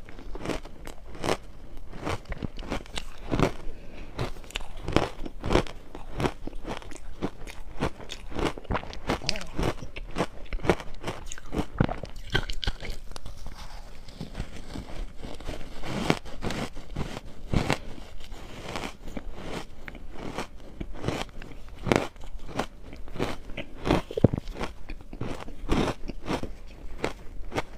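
Crushed ice being bitten and chewed close to the microphone: a continuous run of sharp, crackling crunches that eases briefly about halfway through.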